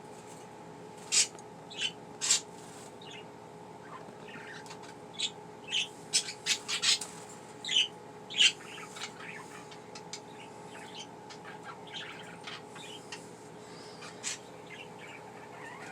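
Pet budgies (budgerigars) chattering in short, sharp chirps, busiest in the first half and sparser later, over a faint steady hum.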